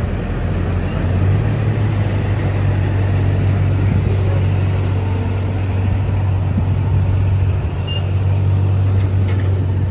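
A vehicle engine running steadily at idle: a low, even drone.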